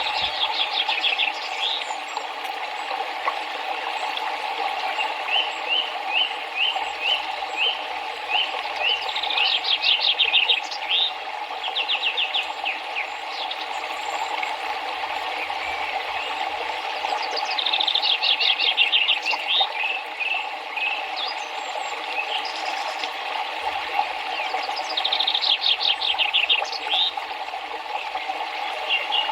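Steady rush of flowing river water, with a songbird singing over it in repeated phrases of quick high notes, some ending in a fast trill.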